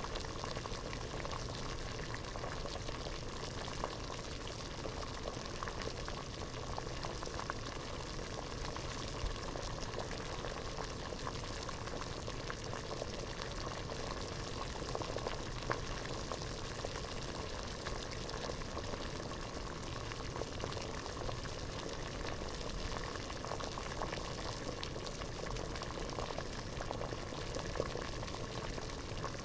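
Water at a rolling boil in a pot: a steady, dense bubbling with many small pops and no pauses.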